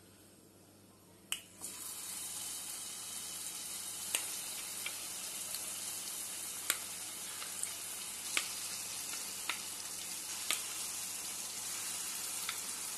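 Batter-coated cauliflower florets deep-frying in hot oil: after about a second and a half of near quiet, a steady sizzle starts and runs on with scattered sharp pops.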